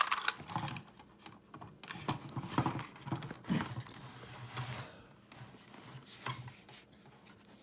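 Irregular clicks and rattles of plastic Hot Wheels Track Builder track pieces being handled and fitted together. They grow sparser and fainter after about five seconds.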